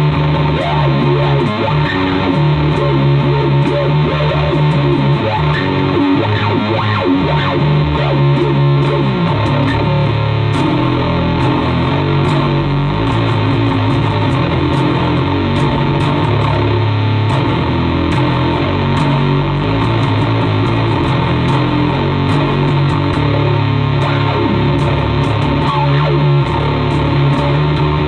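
Distorted electric bass guitar with active pickups, played loud through a RAT distortion pedal into an Orange Terror Bass head and Ampeg SVT-15E speaker cabinet, with the amp's gain on full: a heavy riff of changing low notes.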